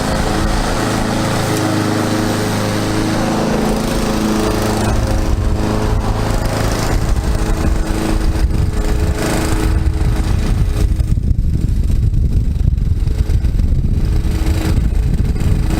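Lawn mower engine running steadily. From about ten seconds in, the higher sounds fade and a rough low rumble takes over.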